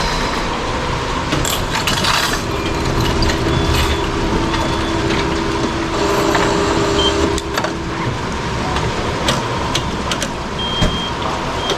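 A vehicle running close by: a steady hum holds for several seconds in the middle, over a constant background of noise, with scattered sharp clicks and jingling.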